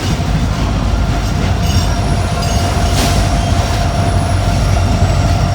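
Approaching freight train rumbling low and steady, with a faint steady squealing tone above it and a single sharp click about three seconds in.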